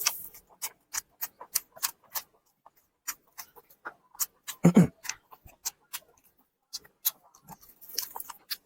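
Close-miked eating sounds of a mouthful of stir-fried starch noodles being chewed: a run of short, wet mouth clicks and smacks, about three a second, with one louder, deeper sound about halfway through.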